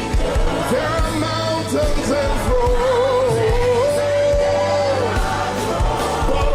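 Live worship music: a band with drums plays while a singer holds a long note in the middle, over congregational singing.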